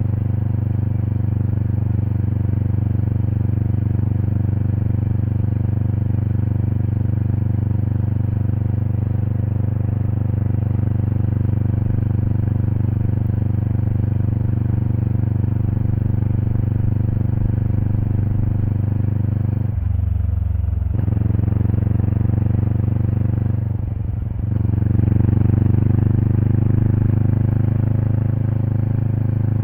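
Kawasaki Eliminator SE's parallel-twin engine running through a BEAMS aftermarket header and muffler, heard from near the exhaust while riding at a steady pace. About two-thirds through, the exhaust note breaks off briefly twice, and after the second break it comes back louder as the bike pulls harder.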